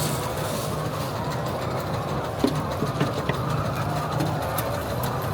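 Steady mechanical running hum with faint scattered clicks.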